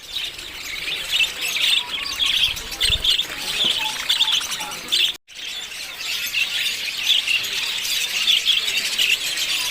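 Lovebirds chirping and squawking in a steady, rapid chatter of high calls, cutting out briefly about five seconds in.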